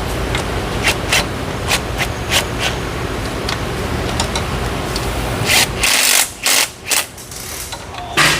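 Shop work on bolts: a steady low hum with scattered sharp clicks, then a power tool run in several short bursts near the end, driving the bolts down.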